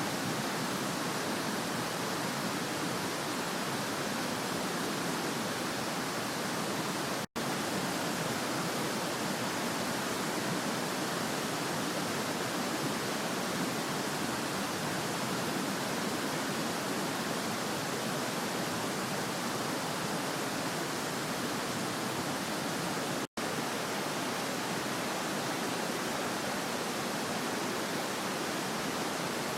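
Creek water rushing steadily, an even hiss with no breaks except for two instants where the sound cuts out, about 7 and 23 seconds in.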